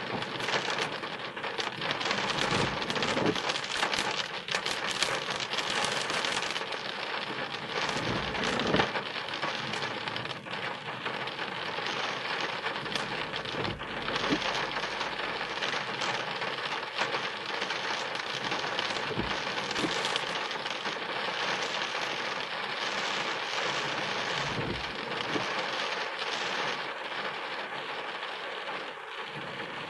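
Heavy rain falling on a car's roof and windscreen, a dense steady hiss full of small drop ticks, heard from inside the car. A low rumble of thunder comes through about eight seconds in.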